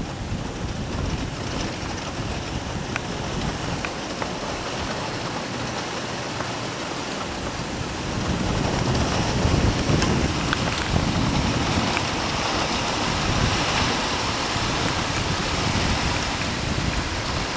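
Heavy rain and gusting wind of a severe thunderstorm, with gusts buffeting the microphone; the wind and rain grow stronger about halfway through.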